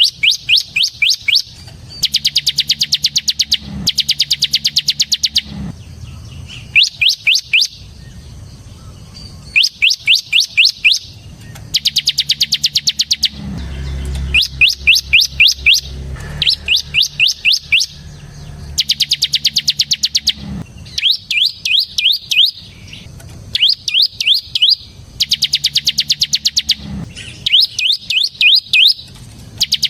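Bar-winged prinia (ciblek) singing in its fast "ngebren" style: repeated bursts of rapid, sharp, evenly spaced high notes, each burst about a second long, with short pauses between them.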